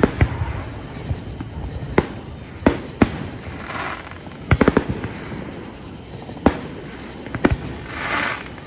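Fireworks going off: aerial shells bursting in sharp bangs every second or so, with a quick run of several bangs about halfway through. Crackling, hissing effects sound between them, the loudest near the end.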